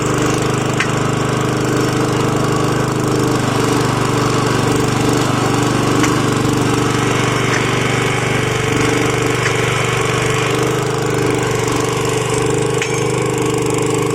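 Rail drilling machine running steadily, boring a hole through a steel railway rail.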